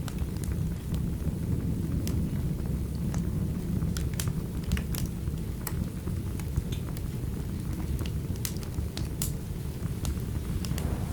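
Wood fire crackling, with irregular sharp pops and snaps, over a steady low rumble of rain and storm.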